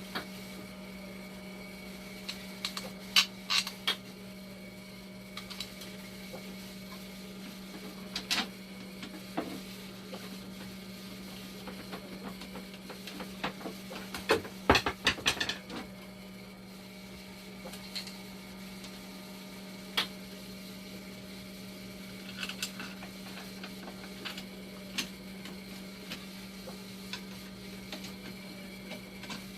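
Dialysis machine running with a steady low hum, overlaid by scattered sharp clicks and knocks: a few near the start, one at about eight seconds, a rapid cluster about halfway through, and more further on.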